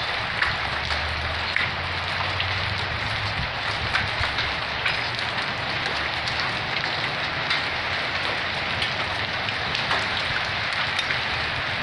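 Pea- and marble-sized hail falling steadily: a dense hiss of impacts with many small, sharp clicks of hailstones striking hard surfaces. A low rumble sits under it for the first few seconds.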